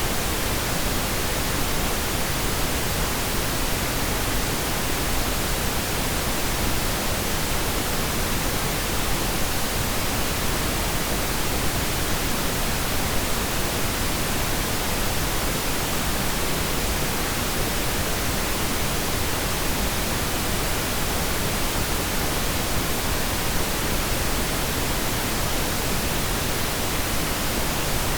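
Steady pink noise: an even, unchanging hiss spread from deep to high pitches.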